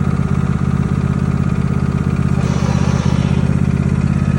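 Engine idling steadily with an even, rapid firing beat.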